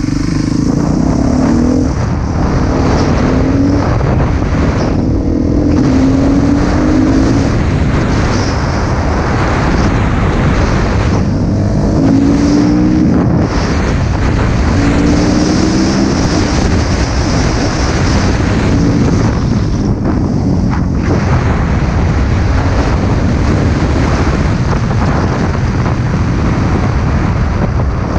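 Husqvarna TC 250 motocross bike's engine revving up repeatedly as it is ridden hard, the pitch climbing in short runs, under heavy wind noise on the microphone.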